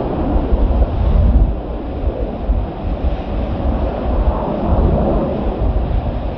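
Strong wind buffeting the microphone: a loud, steady rushing noise with uneven low rumbling gusts.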